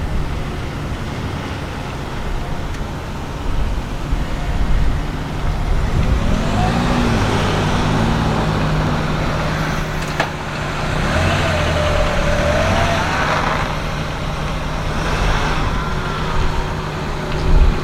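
A low steady engine hum, with wavering tones that rise and fall twice over it.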